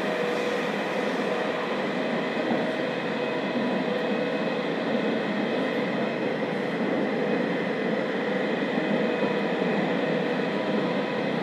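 Interior running noise of a JR Kyushu 305 series electric train, heard in motor car MoHa 305-103: a steady rumble of wheels on rail with several level motor and gear tones, the train running at a constant speed.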